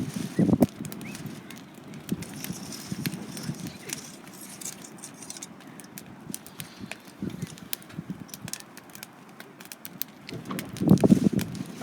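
Wood fire crackling with scattered sharp pops, and a few louder low bumps near the start and again near the end.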